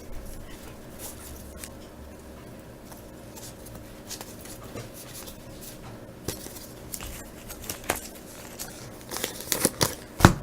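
Trading cards being handled and flipped through one at a time: soft slides and light clicks, scattered at first and busier near the end.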